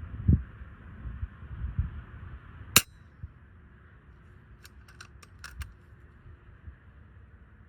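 One sharp report of an FX Impact M4 .22 PCP air rifle firing a 40-grain slug, about three seconds in, after some low thumps. A quick run of faint clicks follows about two seconds later.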